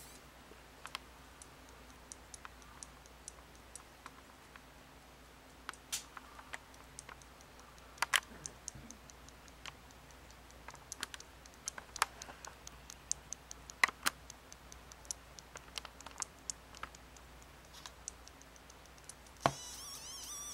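Irregular light clicks and ticks from a sealed plastic juice container, scattered unevenly with a few louder ones, between spells of its squealing air seal.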